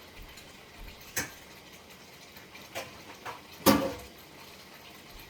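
A few scattered knocks and clicks of cookware and utensils, over a faint steady hiss. The loudest knock comes about two-thirds of the way through, with a short ring.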